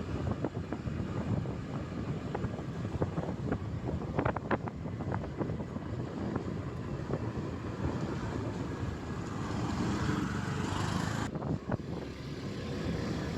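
Motorcycle on the move: engine and road noise with wind buffeting the microphone, swelling a little louder about ten seconds in.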